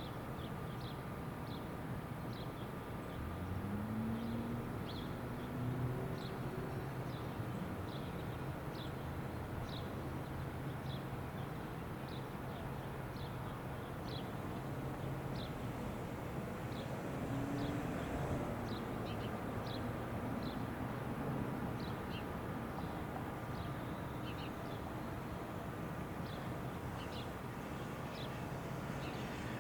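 A bird gives short, high, falling chirps about once a second, over a steady low hum like distant traffic.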